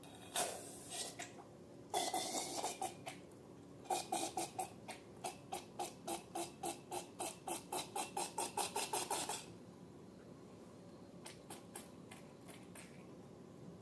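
Slime being worked by hand, making sticky squelching clicks: a short burst, then a fast even run of about four to five clicks a second that stops suddenly, and a few faint clicks near the end.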